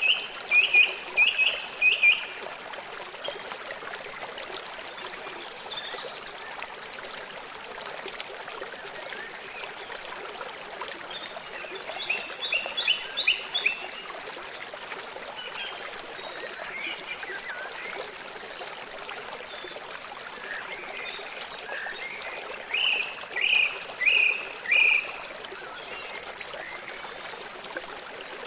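A stream running steadily, with three series of four or five short, high chirping calls from a frog or bird: one at the start, one about halfway through, and one near the end. A few higher single notes sound in between.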